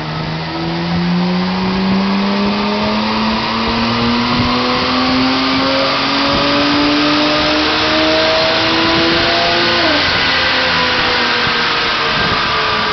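BMW E60 535i's twin-turbo straight-six, with an aftermarket RPi exhaust, making a full-throttle dyno pull, its note rising steadily through the rev range. About ten seconds in the throttle closes and the revs drop away.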